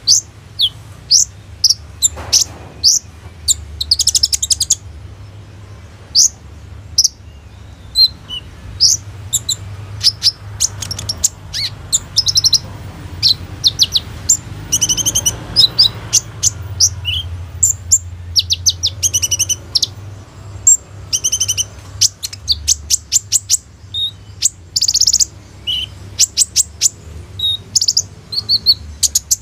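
Kolibri ninja sunbird singing a long, busy song of high, sharp chirps and fast trills of rapidly repeated notes, with short pauses between phrases.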